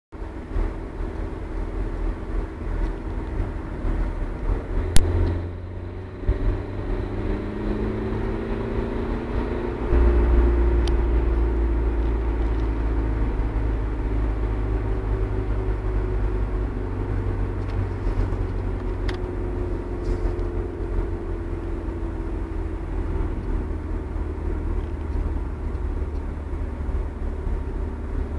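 Opel Meriva running while braking on the engine, with a low rumble and several tones that slowly slide in pitch: the strange noise it makes under engine braking. There is a sharp click about five seconds in, and the rumble gets louder about ten seconds in.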